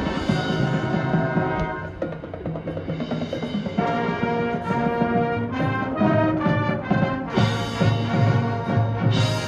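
High school marching band playing loud brass chords, with timpani and drums pounding underneath. The brass shifts to new held chords every second or two.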